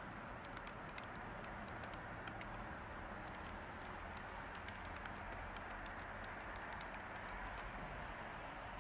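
Light typing on a computer keyboard, irregular scattered key clicks, over a steady hiss of background white noise.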